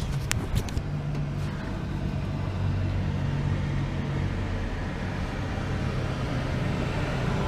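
Vehicle engine idling with a steady low hum, with a few light clicks in the first second.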